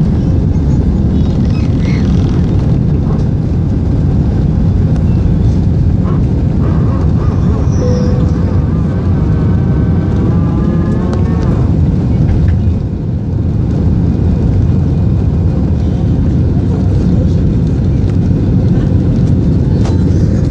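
Steady, loud rumble of an airliner cabin as the plane climbs out after takeoff: jet engines and rushing air. A voice is faintly heard in the background around the middle.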